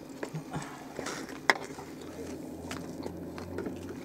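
Eating sounds: chewing a bratwurst in a bun, with a few sharp mouth clicks, the loudest about a second and a half in, and small handling noises from a paper food tray, over a low steady hum.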